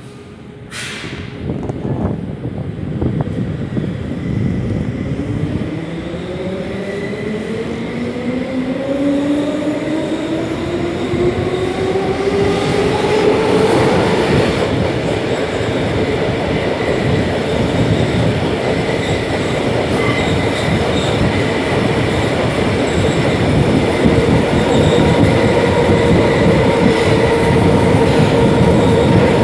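DB class 472 S-Bahn electric train heard from inside while pulling away: the traction motors' whine rises steadily in pitch for about twelve seconds as it accelerates, then holds steady as it runs on, over the rumble and clatter of the wheels on the rails. A brief sharp noise comes about a second in.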